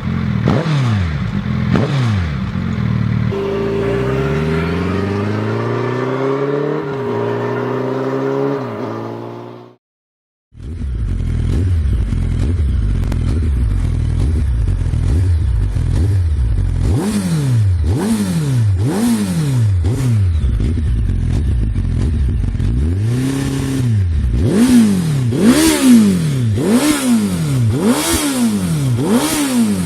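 Suzuki Hayabusa inline-four motorcycle engine with an aftermarket full exhaust: a few quick rev blips, then a steady climb in pitch with two gear changes as it accelerates. After a brief cut to silence, another Hayabusa exhaust idles and is then blipped over and over, about one rev a second.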